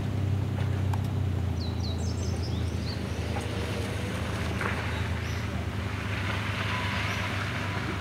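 A vehicle engine running steadily at a low pitch, with a few short bird chirps about two seconds in.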